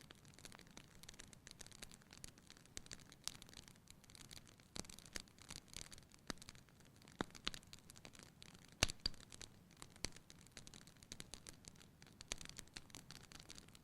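Wood fire burning in a fireplace, crackling with many irregular small pops over a soft low rush of flame. The sharpest pop comes about nine seconds in.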